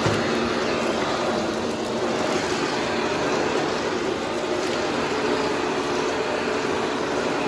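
Vacuum cleaner running steadily, its motor giving a constant hum under an even rush of air.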